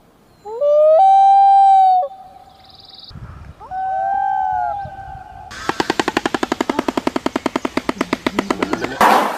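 A long wailing call that rises in pitch and then holds, followed by a softer wavering call, typical of a common loon. Then comes a rapid machine-gun-like clatter of about ten strikes a second for some three seconds, the bill-clattering of a shoebill stork.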